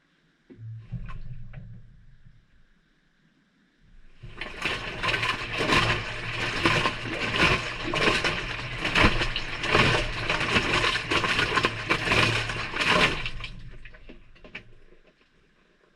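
Maytag front-loader washing machine on a delicate cycle, heard from inside the drum: a short low motor hum about half a second in, then the drum turns for about nine seconds, with wet laundry tumbling and water sloshing in a loud, crackling wash before it stops and the sound fades away.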